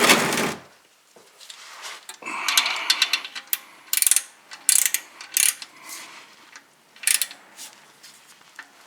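Ratchet of a torque wrench clicking in short strokes, tightening the oil drain plug, with pauses between the strokes.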